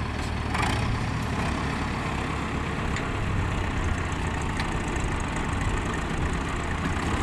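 Heavy tractor engine running steadily with a low hum.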